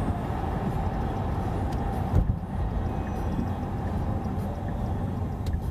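Road and tyre rumble inside the cabin of a Qiantu K50 electric sports car accelerating hard, with no engine note. There is a single thump about two seconds in.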